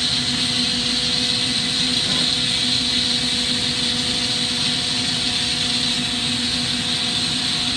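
Steady roar of a glassblowing shop's torch flame and ventilation, with a low steady hum running under it.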